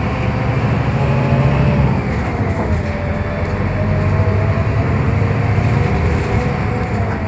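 Scania K320UB hybrid bus under way, heard from inside the cabin: a steady drivetrain rumble and road noise, with a thin whine that slowly drifts up and down in pitch.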